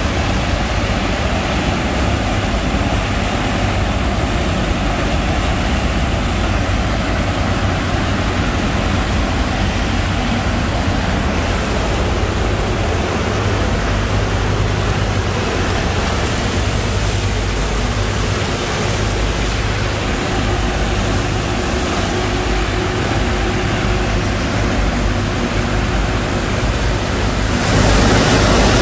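Engine-driven sand pump running, with a loud, steady rush of sand-laden water and a low engine rumble beneath it. It grows louder about a second before the end.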